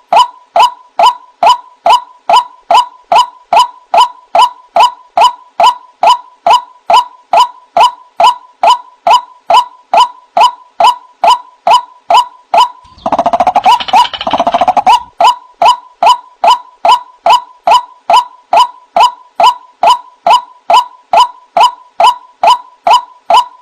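White-breasted waterhen (ruak-ruak) calling as a trapping lure recording: short, slightly down-slurred notes repeated evenly about twice a second. About halfway through, there are two seconds of denser, harsher overlapping calling.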